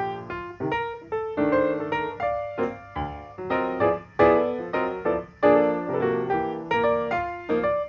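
Background piano music: a run of single struck notes and chords, each fading after it is played.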